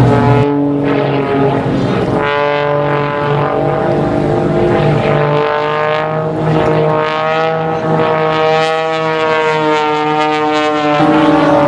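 Propeller aircraft engine running with a steady droning pitch, which sets in about two seconds in and drops away near the end.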